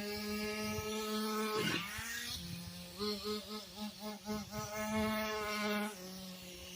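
Small nitro engine of a Traxxas Slash RC truck running with a high buzz, revved up and down in quick blips. About six seconds in it settles to a steady, quieter idle. The engine has just been rebuilt and still needs tuning.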